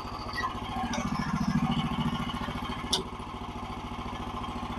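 Gasoline engine of a portable bandsaw sawmill running steadily at low speed, a little louder for a moment about a second in. A single sharp click about three seconds in.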